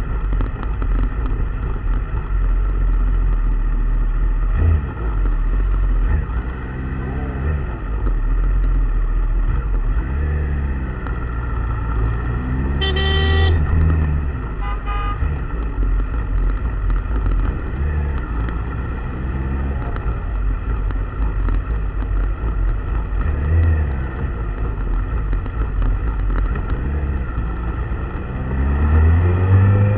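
Road traffic: vehicle engines running and passing one after another, rising and falling in pitch. A horn sounds a blast about thirteen seconds in, and a shorter, fainter toot follows a couple of seconds later.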